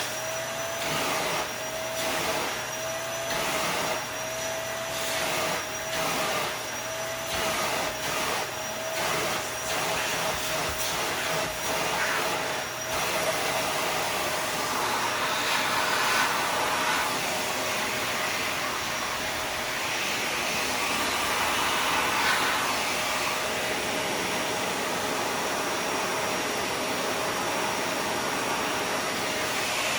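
Dyson vacuum cleaner running steadily, sucking dust out of a Shark vacuum's filters. Its motor whine wavers in pitch about once a second for the first several seconds, then holds steady, with the rush of air growing louder for a few seconds at a time in the middle.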